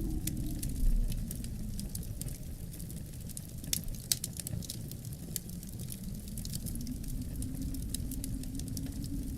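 Wood fire crackling in a fireplace, with frequent sharp pops and snaps over a steady low rumble of wind that swells briefly about a second in.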